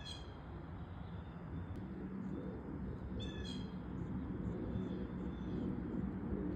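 Blue jay calling twice, about three seconds apart, each call short, over a steady low background rumble.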